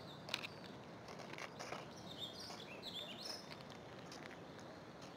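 Small birds chirping faintly, a scatter of short calls, most of them about three seconds in, over a quiet hiss of open air. A sharp click sounds about a third of a second in.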